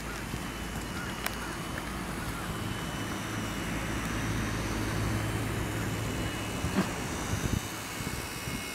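Wind on the microphone with the steady drone of an aircraft's motor and a thin high whine; a few sharp knocks about a second in and around seven seconds in.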